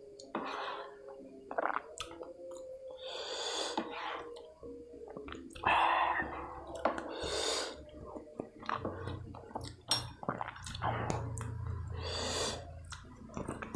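Close-up eating sounds of spicy topokki: wet mouth noises and slurps, with several breathy bursts about a second long and small clicks and clinks in between.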